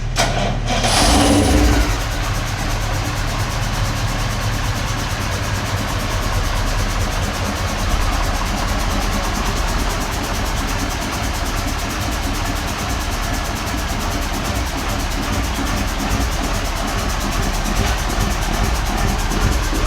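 KAMAZ truck diesel engine being run in after assembly: it surges loudly for the first two seconds, then runs steadily at idle.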